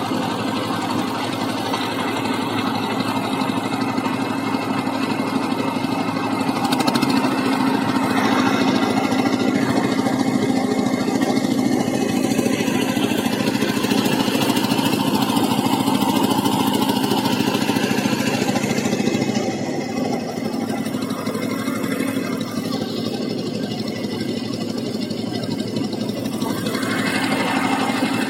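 A boat's engine running steadily with a constant low hum, a little louder from about seven seconds in.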